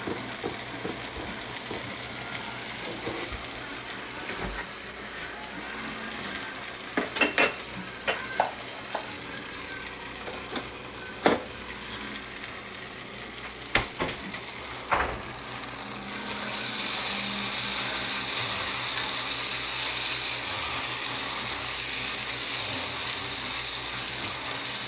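Rice and diced vegetables frying in a nonstick skillet with a steady sizzle. A few sharp clicks come from the spatula against the pan. About sixteen seconds in, the sizzle grows louder and hissier as the mix is stirred.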